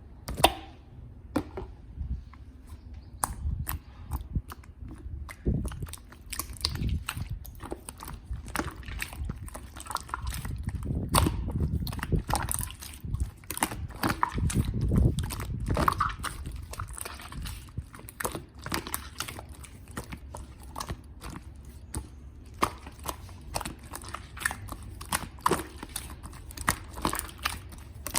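Hands kneading and mixing soft clay: a dense run of small sticky clicks and pops, with heavier, fuller squelches about ten to sixteen seconds in.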